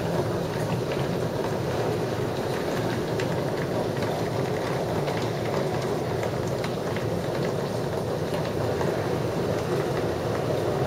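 Heavy rain pouring steadily on garden plants and a deck, a dense even hiss with scattered close drops ticking through it.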